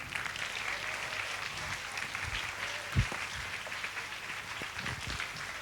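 Audience applause, many hands clapping steadily, with a single low thump about three seconds in.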